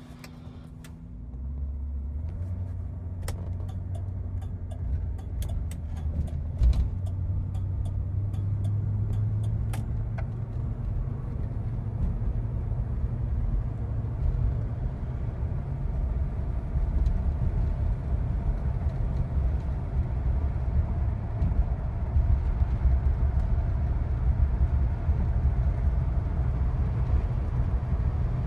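1977 Cadillac Eldorado Biarritz running, a steady low rumble that swells about a second and a half in and holds. A run of light clicks sounds over it during the first ten seconds or so.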